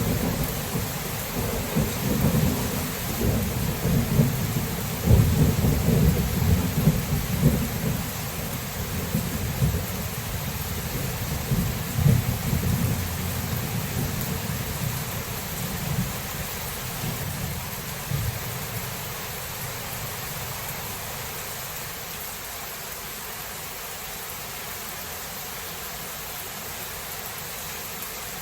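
Thunderstorm: steady rain hiss with rolling thunder. The rumbling comes in repeated swells during the first half and dies away in the second half, leaving mostly rain.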